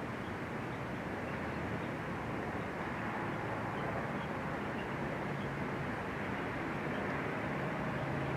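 Steady outdoor background noise, an even hiss and rumble with a faint low hum underneath that grows a little stronger in the second half.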